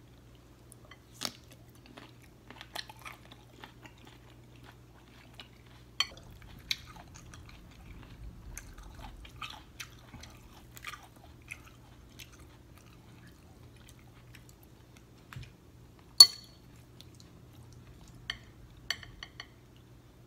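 Chewing and wet mouth sounds of someone eating a sauce-drenched seafood boil, with scattered small clicks and crunches. A single sharp click about three-quarters of the way through is the loudest sound.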